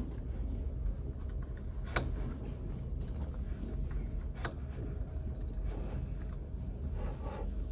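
Library room tone: a steady low hum with a faint steady tone above it, broken by a few sharp clicks or taps, the clearest about two seconds in and another a couple of seconds later.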